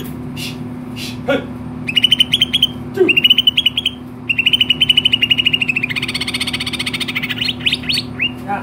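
Cucak ijo (green leafbird) singing in several bursts of fast, rapidly repeated chattering notes. A steady low hum runs underneath.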